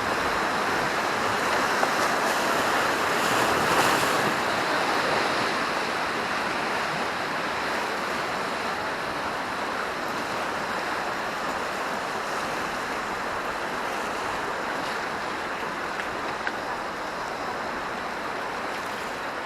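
River rapids rushing around a raft: a steady wash of white water that is a little louder in the first few seconds and then slowly eases.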